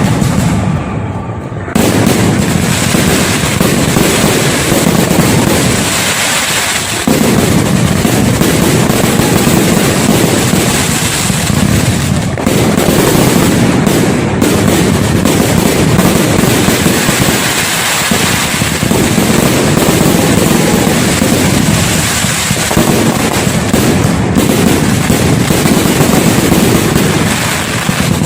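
Fireworks going off in a dense, continuous barrage of bursts and crackle. It is quieter for the first couple of seconds, then jumps up loud and stays unbroken.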